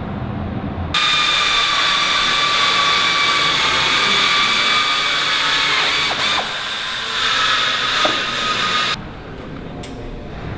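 Power drill running for about eight seconds with a steady high whine, easing off briefly just after six seconds in and then running again before it stops.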